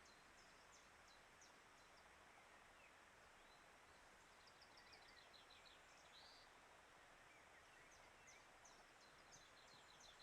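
Near silence: faint steady hiss with a few faint, high chirps of small birds in quick series, about halfway through and again near the end.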